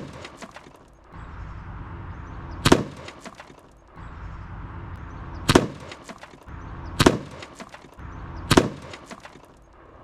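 Umarex AirSaber arrow rifle's shot: a sharp crack as the arrow hits a car door and steel saucepan, then a short clatter of breaking debris. Heard four times in almost the same form: the first about three seconds in, the last three about a second and a half apart.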